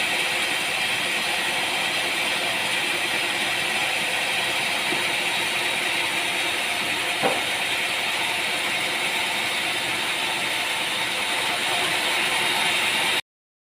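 Sawmill machinery running with a steady, even whir, with a light knock about seven seconds in; the sound cuts out abruptly near the end.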